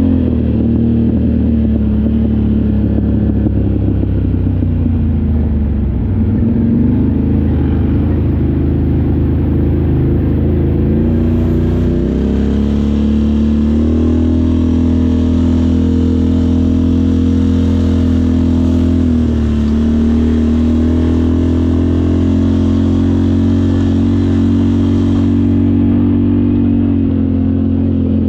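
Off-road vehicle engine running continuously while riding. Its pitch dips about five seconds in, climbs around twelve seconds in and eases back near nineteen seconds.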